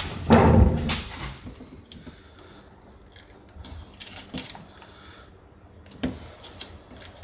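Handling noise from applying vinyl transfer stickers: a loud rustle about half a second in, then scattered light taps and clicks, with a sharper knock about six seconds in.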